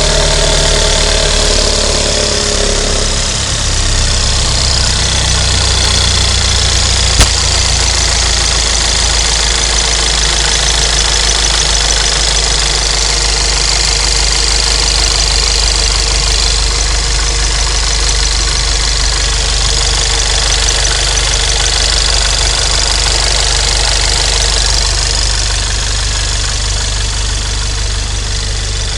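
Volkswagen Scirocco engine idling steadily, with a single sharp click about seven seconds in.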